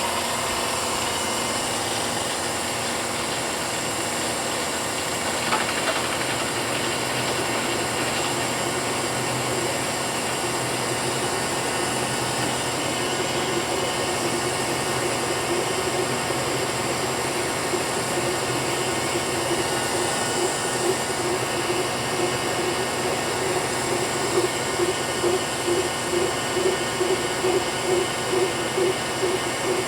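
Milling machine spindle running while a 1-inch roughing end mill cuts a slot in an aluminum block: a steady machining noise with steady tones. From about halfway in, a regular pulsing sets in, a bit more than once a second, growing stronger toward the end.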